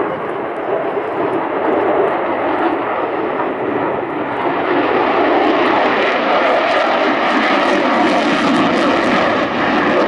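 F-35 Lightning II fighter's Pratt & Whitney F135 jet engine flying by, loud and steady, taking on more high hiss from about four seconds in.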